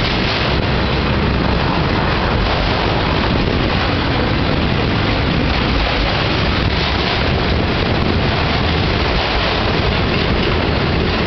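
Freight train's autorack cars rolling past close by: steel wheels on rail making a loud, steady noise with no let-up.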